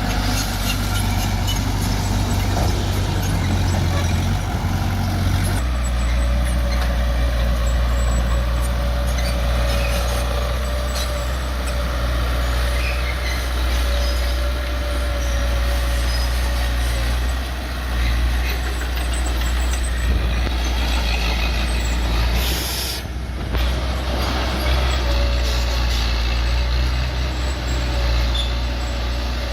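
Bulldozer's diesel engine running steadily under work, with a steady whine over it; the engine note shifts about six seconds in, and there is a brief hiss near the end.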